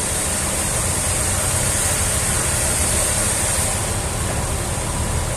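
Steady machine noise: a continuous low rumble with a constant high hiss over it.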